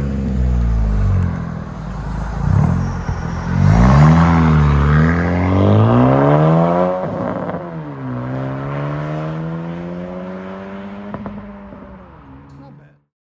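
2017 Honda Civic Si's turbocharged 1.5-litre four-cylinder accelerating hard through an aftermarket exhaust. The revs climb, drop at a gear change about seven seconds in, then climb again as the sound fades out near the end.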